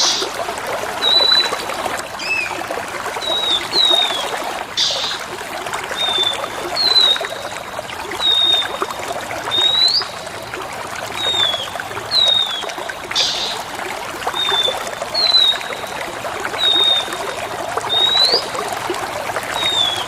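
Water trickling steadily under a bird's short whistled notes, about one every second and a half, some rising and some falling. A few brief harsh chirps come through, one near the start and two more later.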